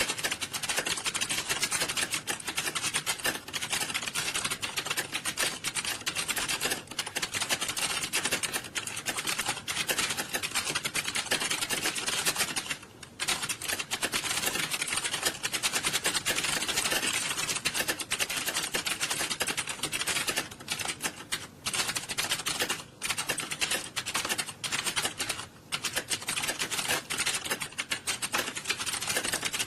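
Many computer keyboards typed fast at once, a dense, continuous clatter of keystrokes with a few brief lulls.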